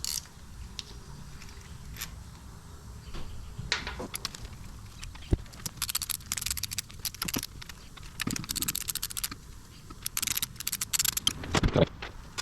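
Workshop hand-tool and metal-part handling during engine teardown: scattered metallic clinks and a few knocks, with two runs of rapid clicking.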